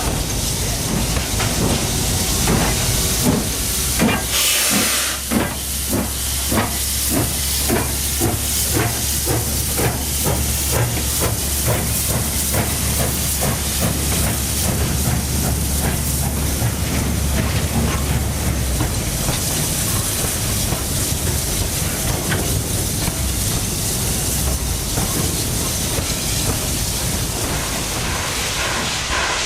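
Steam locomotive hissing steam, with a burst of hiss about four seconds in. A steady rhythm of exhaust chuffs follows until about two-thirds of the way through, then the hiss of escaping steam continues.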